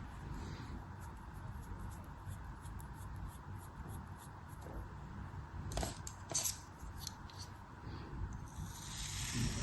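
Knife cutting into a soft, crumbly craft block, with faint fine crackling, two sharper crunches about six seconds in and a short scraping hiss near the end.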